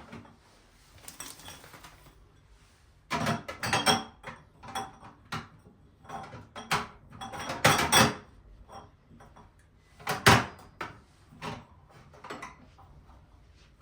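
Household handling sounds: scattered knocks and clatters, as of dishes, a drawer or a cupboard, in several short clusters a few seconds apart.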